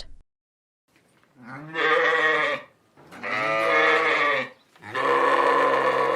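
Sheep bleating: three long calls, one after another.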